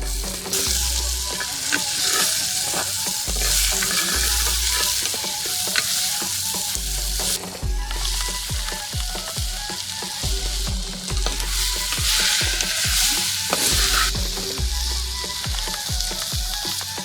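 Food frying and sizzling in a pot while it is stirred. The hiss swells and eases several times.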